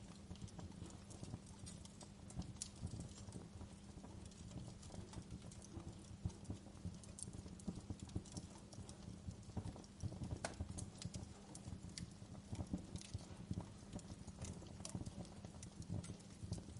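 Wood fire in a fireplace crackling, with irregular pops and snaps over a low rumble of the flames. A couple of sharper pops come about two-thirds of the way through.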